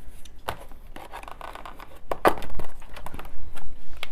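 A few short knocks and scrapes of objects being handled on a table, the loudest a little past the two-second mark.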